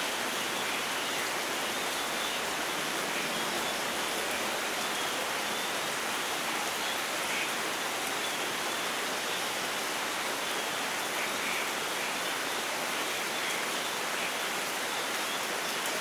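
Steady rainfall, an even hiss of rain that keeps the same level throughout.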